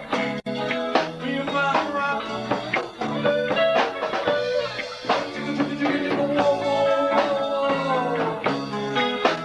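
Live rock band of electric guitar, bass guitar and drum kit playing a song, with a gliding guitar melody over a steady bass line and drum beat.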